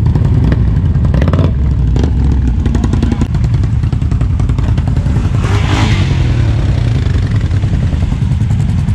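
ATV engine running loud and close, its pitch shifting as the revs change, with a short hissing burst about five and a half seconds in.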